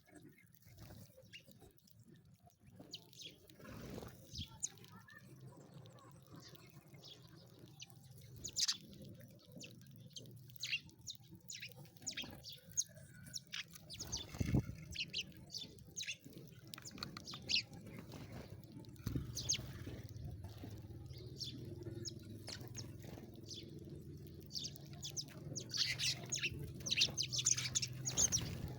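Sparrows chirping: many short, scattered chirps that grow busier near the end, over a low steady hum that builds in the second half, with a few soft thumps.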